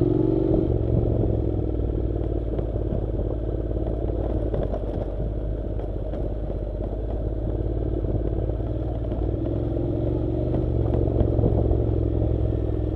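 Honda NC700's parallel-twin engine running while the motorcycle rides a dirt road, with scattered clatter from gravel and rattling parts. The engine eases off about a second in and picks up again near the end.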